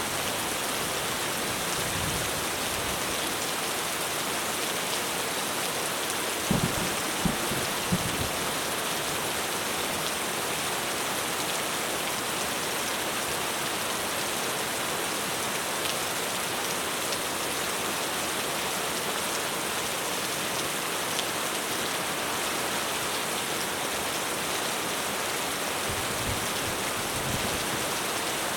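Heavy rain drumming steadily on a roof. A few short, low thuds stand out about a quarter of the way in.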